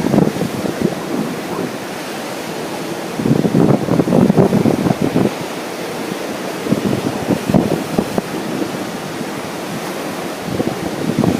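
Wind buffeting the microphone in irregular gusts over a steady wash of ocean surf.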